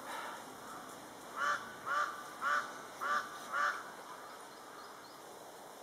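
A bird calling five times in quick succession, about two calls a second, starting about a second and a half in.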